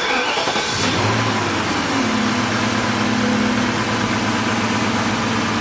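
1998 BMW 540i's 4.4-litre V8 starting up, its speed flaring and falling back to settle into a steady idle about two seconds in. The engine carries a slight misfire on cylinder 7, traced to a poor contact at the injector connector.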